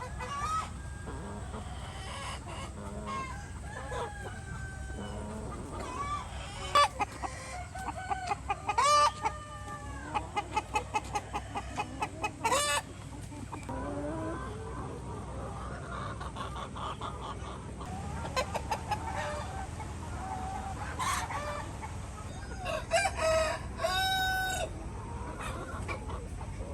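A flock of chickens clucking and calling, with a quick run of clucks about ten seconds in and rooster crows among the calls.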